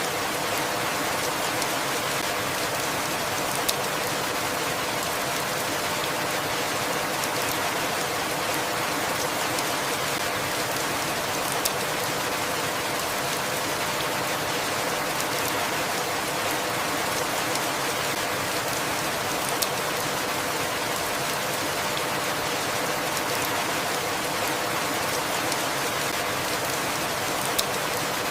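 Steady rain falling, an even hiss, with a few sharp ticks, four of them about eight seconds apart.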